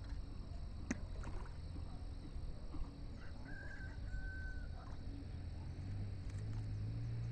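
A faint, drawn-out bird call in two parts about three and a half seconds in, over a steady low rumble; a sharp click about a second in.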